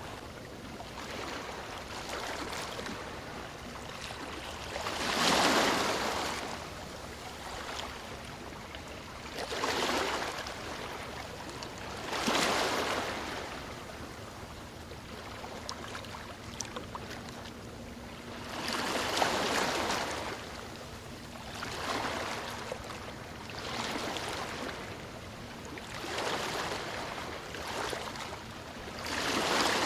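Ocean waves washing onto a shore: a steady wash of surf with a surge every few seconds as each wave breaks, about eight in all.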